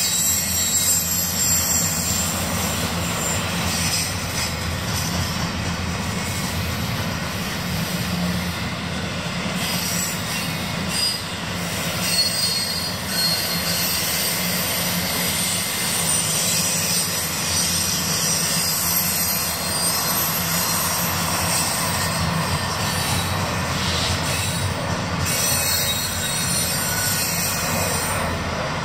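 Double-stack intermodal freight cars rolling slowly past, a steady rumble of wheels on rail with a high steel-wheel squeal over it.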